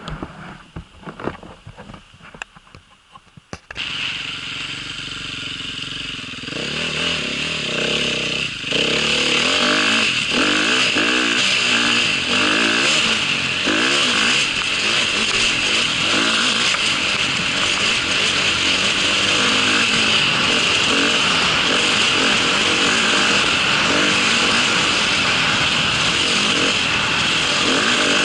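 A few scattered clicks and knocks, then a motorcycle engine starts up about four seconds in and runs. It steps up in loudness around six and nine seconds in, then holds loud and steady.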